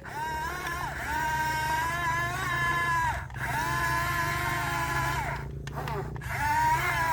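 Motor of a radio-controlled excavator whining as it works, twice: it rises in pitch, holds steady for a couple of seconds and falls away each time, with a short pause between. A low hum runs underneath.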